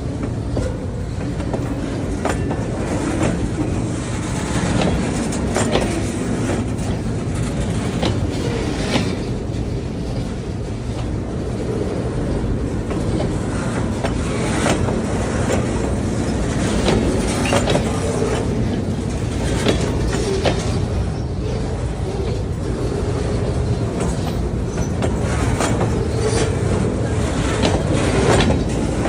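Train rolling past, its wheels clicking over the rail joints against a steady rumble.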